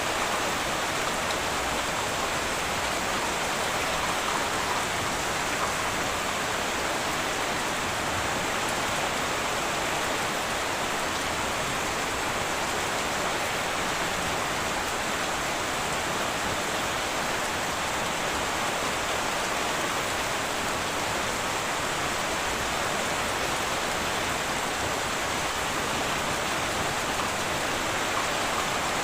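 Heavy rain falling steadily on a tin roof, an even hiss without thunder.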